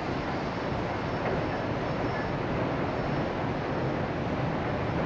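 Steady rumble of passenger railcars rolling across a steel trestle bridge, blended with the continuous rush of whitewater rapids below.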